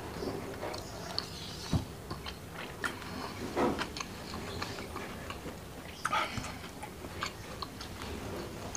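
Close-miked mouth sounds of a person chewing fried fish and rice with chili sambal: wet smacks and small clicks scattered throughout, with a few louder smacks.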